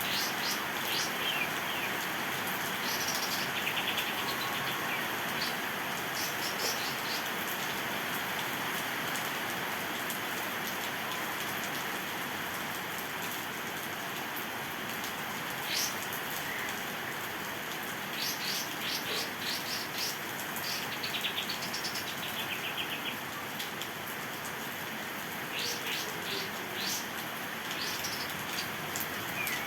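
Steady rain with a kapas tembak songbird calling every few seconds in short runs of rapid, high repeated notes.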